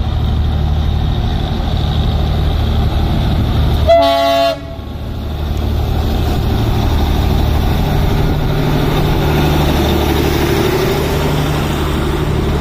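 Darjeeling Himalayan Railway NDM6 narrow-gauge diesel locomotive running slowly into the station with a steady low engine hum, giving one short horn toot about four seconds in.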